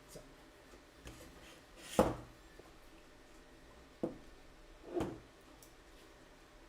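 Parts being handled and set down on a work surface while a 3D printer is assembled: five or so short knocks with light rubbing between them, the loudest about two seconds in and another about five seconds in.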